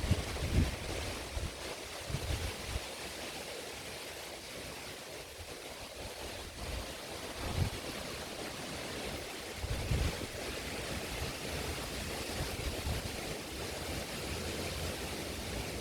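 Heavy rain falling steadily, a dense hiss. A few short, low rumbles break in near the start, about a third of the way through and about two-thirds of the way through.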